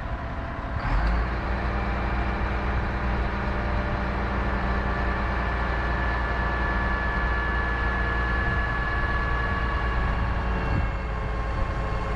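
Crane's diesel engine running steadily, revving up about a second in and holding high revs while it works a heavy lift, then easing off near the end.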